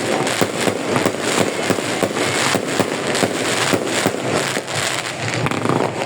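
Fireworks going off in a dense barrage: many sharp bangs and crackles following close on one another without a break.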